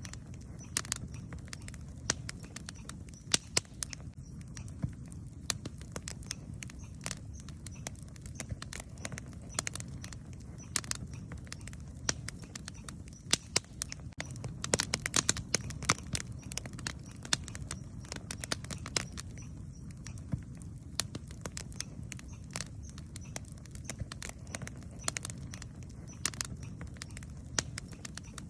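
Wood campfire crackling, with irregular sharp snaps and pops that come thickest for a couple of seconds about halfway through, over a steady low rumble.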